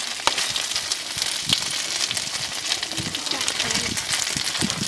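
Stuffed chive cakes frying in oil on a large, shallow metal pan: a steady crackling sizzle.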